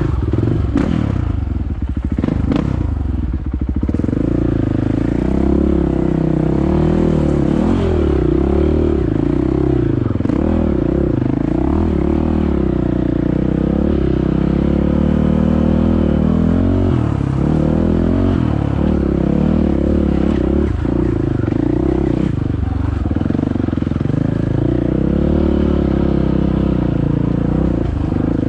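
Dirt bike engine being ridden hard along a trail, its pitch rising and falling continuously with the throttle. There is some clattering over rough ground one to three seconds in.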